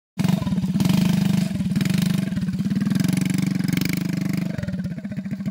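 The engine of a wood-cutting saw running, a steady, rapidly pulsing engine note that starts abruptly.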